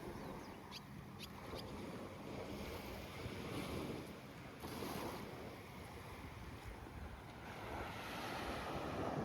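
Steady rushing noise with a few faint ticks about a second in.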